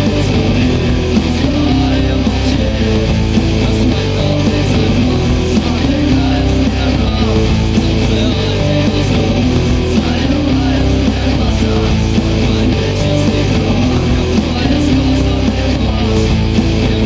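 Rock music: a loud guitar-band recording with guitars over a steady beat.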